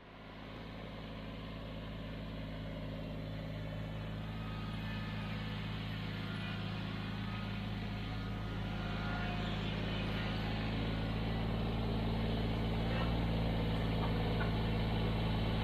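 An engine idling steadily at an even pitch, fading in and growing slowly louder.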